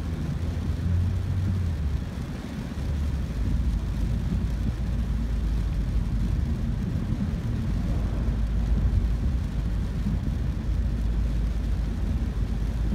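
Steady low rumble of a car driving on a rain-soaked road, heard inside the cabin, with an even hiss of tyres and rain over it.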